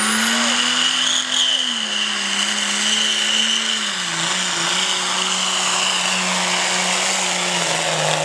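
2003 Duramax 6.6-litre V8 turbodiesel pickup under full throttle pulling a sled, the engine held at high revs with a high whine over it. The revs drop about two seconds in and again about four seconds in, then hold steady.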